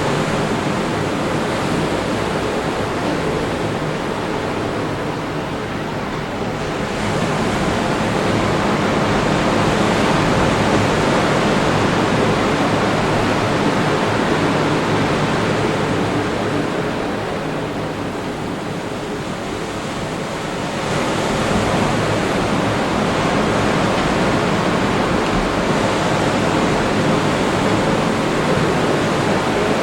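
Ocean surf breaking on a beach: a steady wash that swells as waves break about 7 seconds in and again about 21 seconds in.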